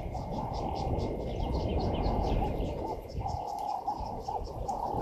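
Wild birds calling: a short mid-pitched note repeated several times a second, with scattered high chirps above it, over a steady low background noise.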